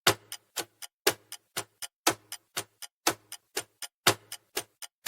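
Countdown timer sound effect: a clock ticking, with a louder tick every second and softer ticks between, about four ticks a second.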